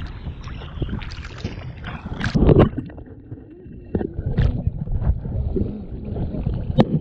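Sea water sloshing and wind buffeting the microphone, with a few louder surges of splashing.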